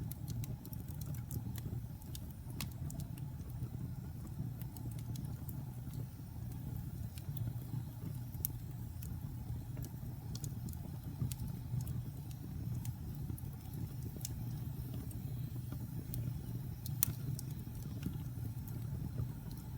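Wood logs burning in a fireplace: a steady low rumble of the fire with scattered sharp crackles and pops, one louder pop near the end.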